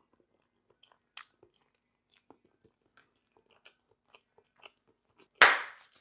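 Close mouth sounds of someone eating creamy Mexican green spaghetti and chicken: soft, scattered chewing clicks throughout. One much louder, short noise comes near the end and fades away.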